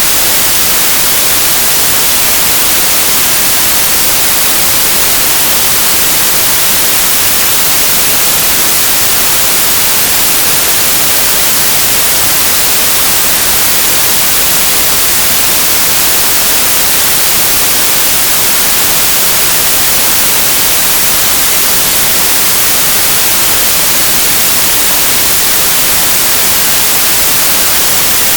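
Synthesized white noise: a steady, even hiss, bright and flat across the range, with no changes or events.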